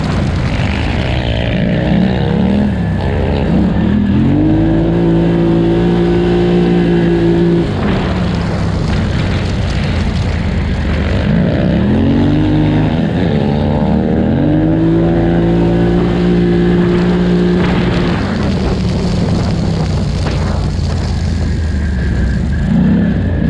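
2018 Polaris Scrambler XP 1000 ATV's twin-cylinder engine racing at full throttle, revs wavering over rough ground, then climbing and holding steady twice before dropping off sharply about eight seconds in and again about eighteen seconds in.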